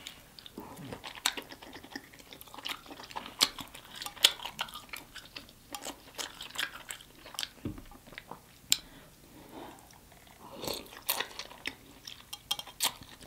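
Close-miked chewing and biting of a person eating sauce-coated king crab meat, with many short, irregular mouth clicks.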